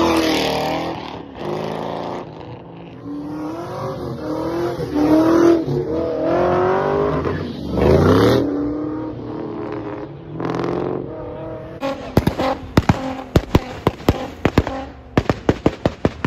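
Ford Mustangs driving past at low speed, engines revving up and down, with one accelerating in a rising sweep about eight seconds in. From about twelve seconds there is a rapid train of sharp cracks, several a second.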